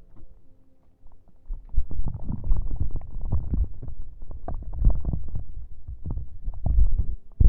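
Close-miked ASMR prop sounds: dense crackly rubbing and scratching with a low rumble. It starts about a second and a half in, after a near-quiet moment.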